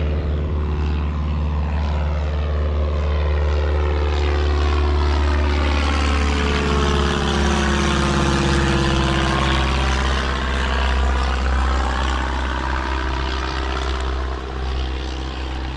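A light propeller airplane's engine running steadily as the plane flies close past, its sound sweeping as it passes about halfway through.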